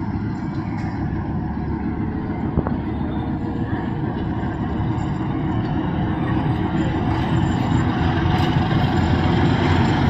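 Local passenger train running: a steady rumble that slowly grows louder, with one sharp click about two and a half seconds in.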